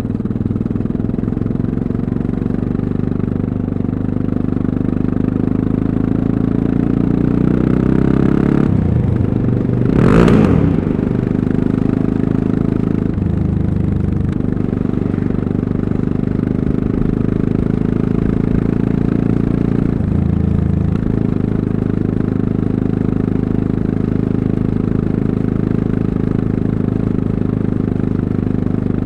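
Yamaha MT-03's 660 cc single-cylinder engine running steadily as the motorcycle is ridden, rising in pitch briefly about eight seconds in. A short, loud rush of noise comes about ten seconds in.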